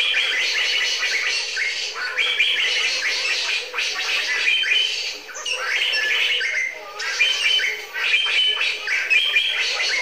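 Small birds calling: a dense run of high chattering phrases repeated over and over, with brief lulls about midway.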